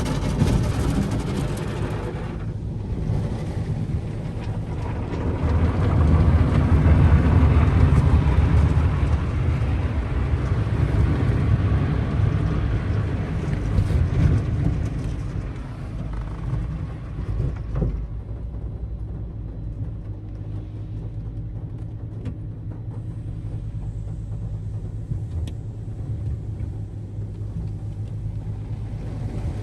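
Automatic tunnel car wash equipment working over a car, heard from inside the car: a dense wash of spray and machinery noise with a heavy low rumble. It eases after about 18 seconds to a quieter, steady low hum.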